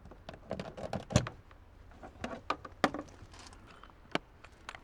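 Freshly made ice cubes from a camping fridge's ice maker clinking and clattering in a series of irregular light clicks, loudest about a second in.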